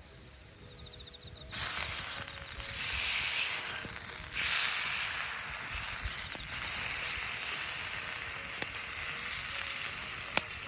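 Food sizzling in a hot pan, starting suddenly about a second and a half in as it hits the heat, easing briefly and then frying on steadily with a few small pops.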